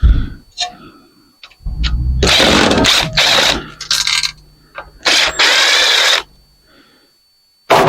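Handheld power drill running in two short bursts, the first about two seconds and the second about a second, with a short knock or two between them.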